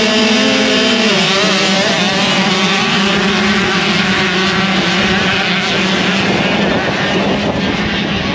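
Motocross dirt bike engines running on the track, their pitch rising and falling as they rev.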